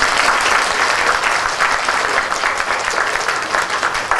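An audience applauding at the end of a told story: steady, dense clapping from many hands.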